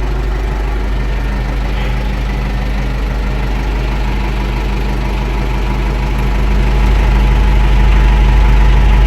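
AgKing compact tractor's diesel engine idling steadily, growing louder about seven seconds in.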